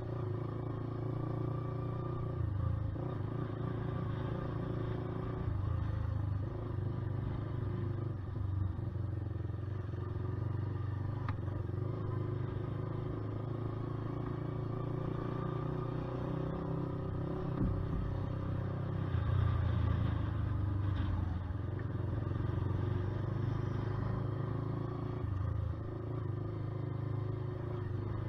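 Honda CBR125R's single-cylinder four-stroke engine running while the bike is ridden. The engine note shifts up and down several times with throttle and gear changes.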